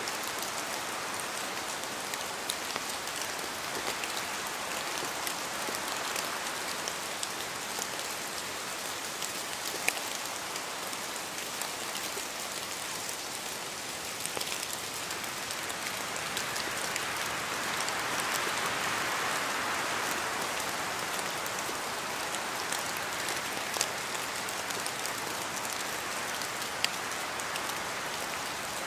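Steady rain falling, a dense hiss of drops with scattered sharper single drop clicks; the downpour swells slightly about two-thirds of the way through.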